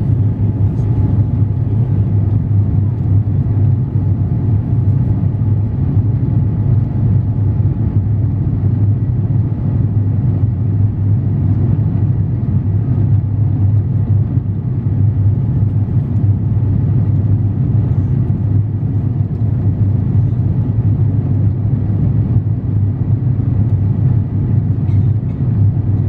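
Steady low cabin drone of an Airbus A350-900 under power, heard from inside the cabin: Rolls-Royce Trent XWB engine noise and airflow as an even rumble, with a faint steady whine above it.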